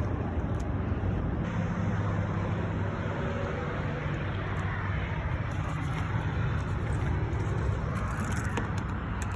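Pickup truck's engine running steadily, a low even hum heard from inside the cab.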